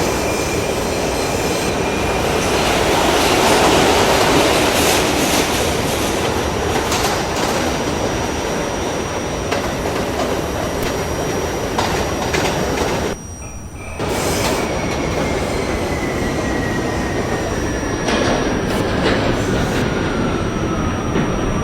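R68A subway train running on the rails: a steady loud rumble with wheel squeal and scattered clicks from the track. A little past the middle the noise drops out briefly, then comes back with a thin whine that falls slowly in pitch, typical of the train slowing down.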